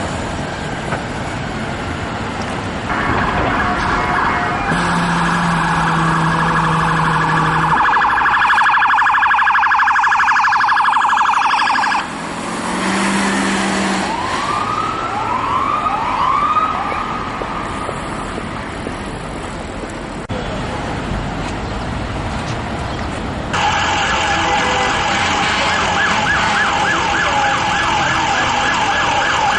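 NYPD Emergency Service Unit truck sirens sounding on emergency response, switching between a fast yelp warble and slower rising wail sweeps, over city traffic noise. Several abrupt cuts change the sound between clips.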